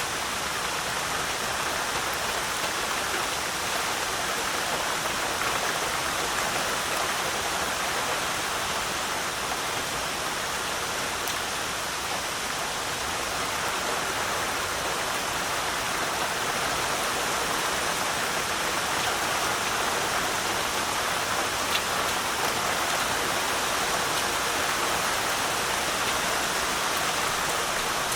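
Heavy rain falling steadily in a forest at night, a dense even hiss with now and then a single drop standing out.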